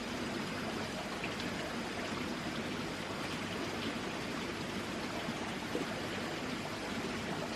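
Steady rush of running water, with a faint steady high tone above it.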